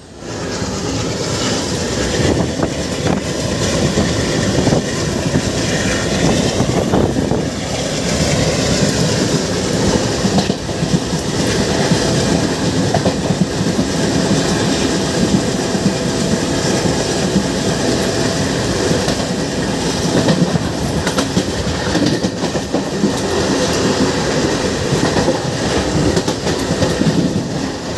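Passenger train running at speed, heard from an open coach door or window: loud, steady rumble and rattle of the wheels on the rails.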